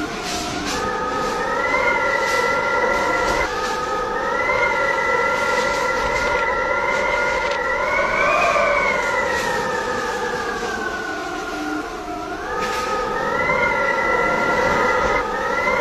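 Storm wind howling, a loud multi-toned whistle whose pitch rises and falls unevenly with the gusts, over a rushing noise.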